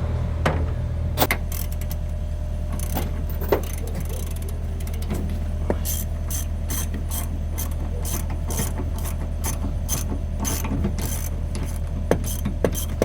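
Hand ratchet wrench clicking in quick runs while loosening the wedge lock on the excavator's coupler, over the steady low hum of the idling excavator engine.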